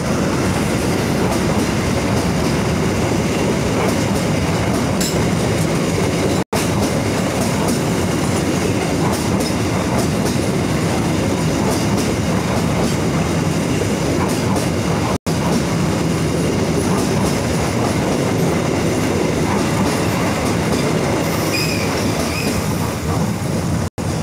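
Passenger train rolling past close by, a loud steady rumble of wheels on the rails, with a faint high squeal near the end.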